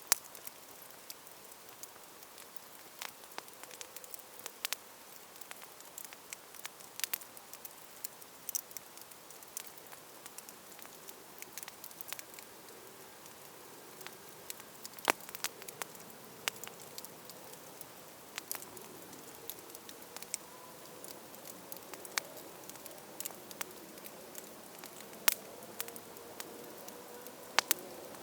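Wood campfire burning, with irregular sharp crackles and pops over a steady soft hiss. A faint wavering tone joins in during the second half.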